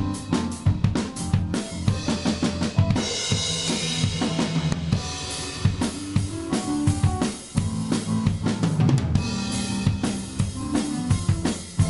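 Instrumental rock band playing live, the drum kit loudest with rapid kick and snare hits over sustained bass and guitar notes; cymbals wash in twice, about three seconds in and again about eight seconds in.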